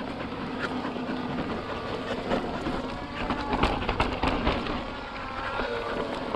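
Mountain bike being ridden over bare slickrock: steady tyre noise on the rock with frequent rattles and knocks from the bike as it rolls over the bumps.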